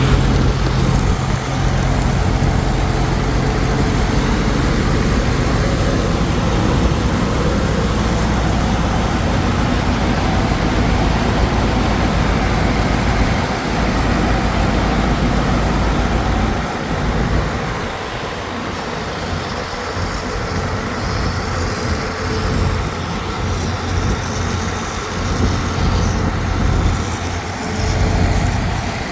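A heavy engine running steadily with a strong low hum. It eases off a little and turns more uneven about halfway through.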